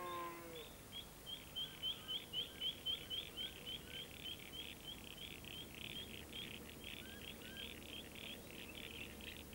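Small birds chirping: a rapid string of short, high chirps about three a second, turning into busier, irregular chirping partway through, with a few lower notes mixed in.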